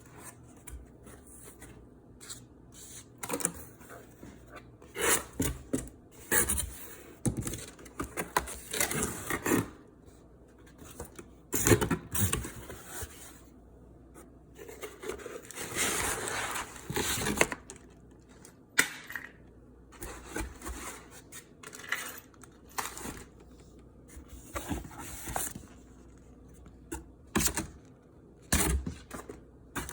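Irregular handling noises: bursts of scraping, rustling and clicking of objects being moved and handled, with no vacuum motor running.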